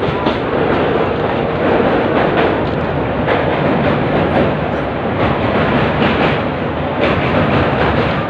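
Indian Railways train running on the track, a steady rumble with irregular clicks of the wheels over rail joints.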